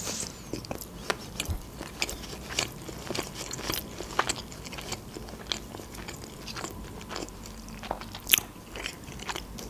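Chewing a mouthful of sushi roll: many small wet mouth clicks and light crunches, scattered irregularly throughout.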